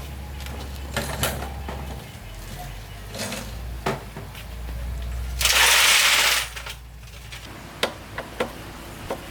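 Small clicks and knocks of metal parts and tools being handled, with a loud hiss lasting about a second a little past the middle, over a steady low hum.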